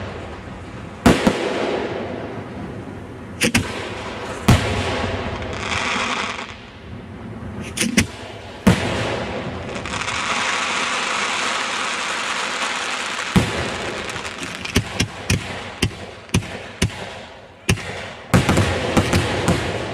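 Fireworks display: sharp bangs of shells bursting a few seconds apart, a stretch of dense crackling in the middle, then a quick run of many bangs near the end.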